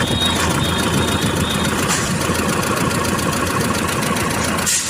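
Engine running steadily at idle.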